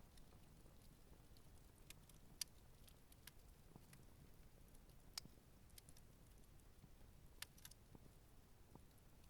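Campfire burning quietly, with scattered sharp crackles and snaps from the wood. The loudest pops come about two and a half, five and seven and a half seconds in.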